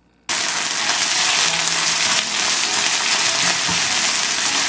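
Sliced long green onion (naga-negi) and dried shrimp sizzling in hot olive oil in a frying pan while being stirred with a spatula. The loud, steady sizzle starts suddenly just after the start.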